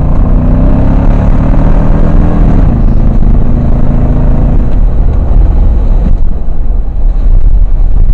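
Four-wheel-drive truck engine revving hard as it drives through mud, its pitch climbing over the first couple of seconds and dropping away about three seconds in, under a loud, steady rushing noise.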